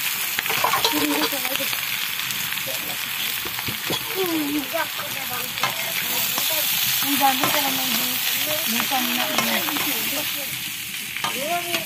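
Boiled potato chunks sizzling as they fry in a black iron kadai over a wood fire, with a long spoon stirring them and scraping the pan. The sizzle is a steady hiss.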